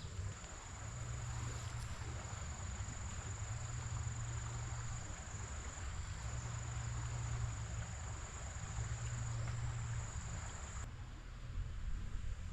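An insect's steady high-pitched trill that cuts off about eleven seconds in, over a low rumble that swells and fades every couple of seconds.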